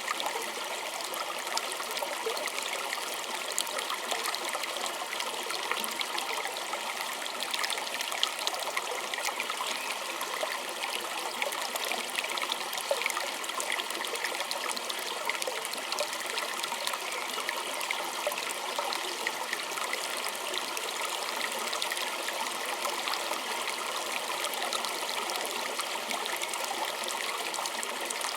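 A small stream trickling and babbling steadily over stones, with many small splashes and drips.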